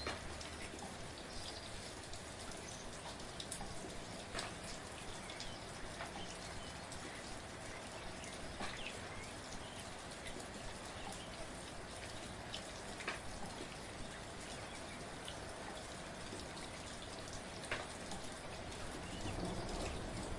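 Soft, steady rain falling, a constant hiss with scattered individual drops ticking close by.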